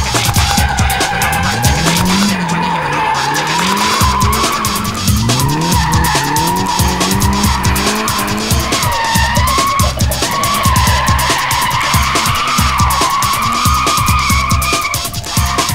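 Car tyres squealing in a long, wavering drift, with an engine running under it and background music with a steady beat.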